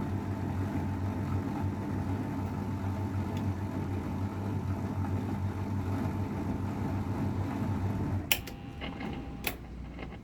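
AEG Öko-Lavamat 693 washing machine running with a steady motor hum and a thin whine. A little after eight seconds in there is a sharp click, with another about a second later, and after them the hum is quieter.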